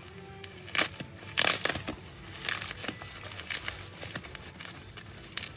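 Plastic parcel wrapping being crinkled and pulled at by hand, in short irregular bursts.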